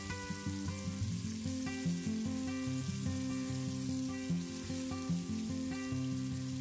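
Ground dried-chilli paste thinned with water sizzling in a pan as a wooden spatula stirs it. Background music with a melody of short notes plays over it.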